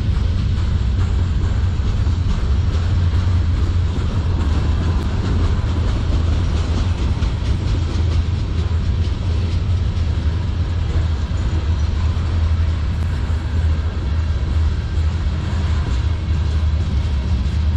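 Freight cars of a manifest train rolling past on the near track: a steady, loud, continuous rumble of wheels on rail, strongest in the low end.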